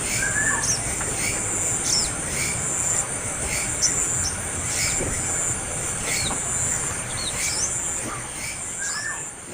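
A young bird's begging calls: short chirps, one or two a second, over a steady high-pitched insect drone.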